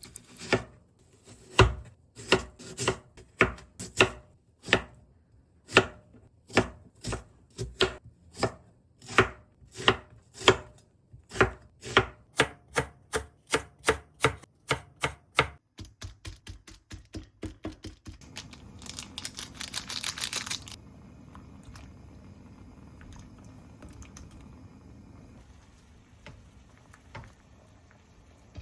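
Knife chopping food on a cutting board, steady strokes about two to three a second, then a quicker run of lighter cuts. After that comes a couple of seconds of hissing noise, and then only a quiet background.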